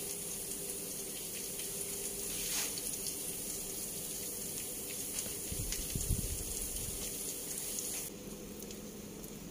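Steady sizzling hiss of burger patties frying in oil in a pan, with faint crackles and a few soft low bumps about six seconds in; the hiss drops away near the end.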